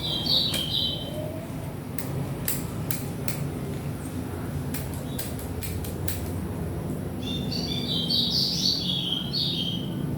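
A bird chirping in quick stepped phrases, briefly near the start and again for a couple of seconds near the end, with light clicks of small parts and a screwdriver being handled in between, over a steady low rumble.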